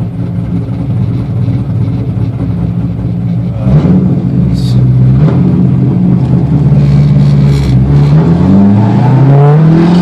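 A 1999 C5 Corvette's LS1 V8 and drivetrain running on the move: steady at first, then climbing in pitch under acceleration from about eight seconds in. The car has developed a strange drivetrain noise that the owner traces to the torque tube and shifter.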